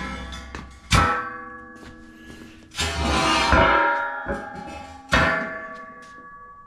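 Steel pieces clanging: two sharp metal strikes, about a second in and again near the end, each leaving a long ringing tone, with a short stretch of rough scraping noise between them.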